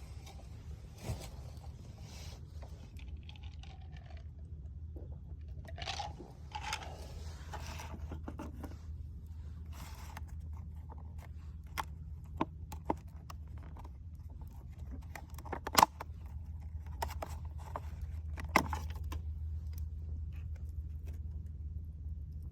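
Wood campfire burning, with scattered sharp pops and crackles over a steady low background; scraping, rustling noises around a quarter to half way through, and the loudest pop about two-thirds in.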